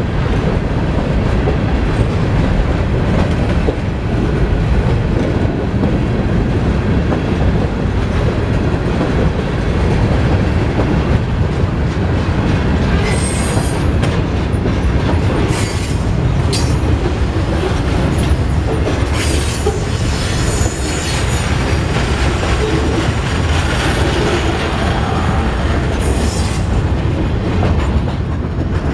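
Mixed freight train of covered hoppers and boxcars rolling past with a steady low rumble of wheels on rail. Brief high-pitched wheel squeals break in several times from about halfway on.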